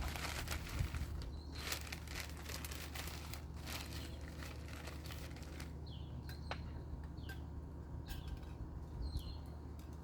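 Small birds chirping, each a short call falling in pitch, about once a second in the second half, over a steady low hum. In the first few seconds there is a run of scratchy rustling strokes.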